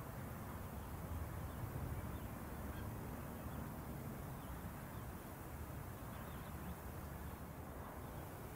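Steady low outdoor rumble with faint, scattered bird chirps above it.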